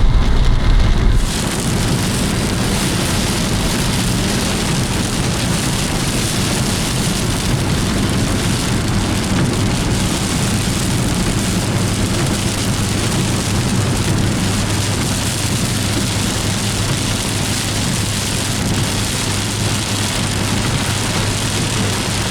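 Heavy rain beating steadily on a moving car, with a low hum of engine and road underneath. It starts abruptly about a second in, replacing a louder deep rumble.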